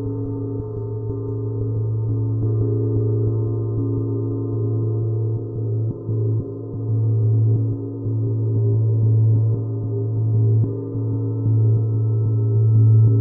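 A gong sounding a sustained low drone with several held overtones, swelling and dipping in loudness without distinct strikes.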